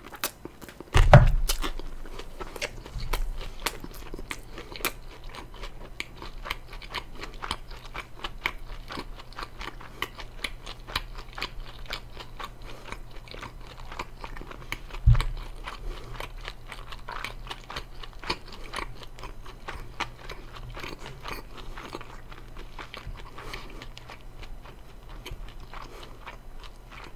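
Close-up chewing and biting of crispy fried chicken: a steady run of crunches and small wet clicks, with a louder thump about a second in and another at about fifteen seconds.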